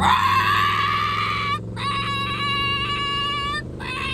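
A woman imitating an engine with her mouth: a high, sustained buzzing hum that slides up at the start and is held in three stretches, with two brief breaks for breath. A steady low hum runs underneath.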